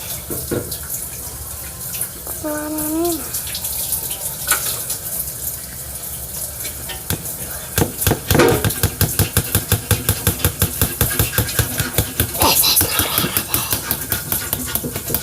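Water running from a kitchen tap. From about halfway, a fast, even run of short strokes at about four a second, as a slime mixture is stirred in a bowl.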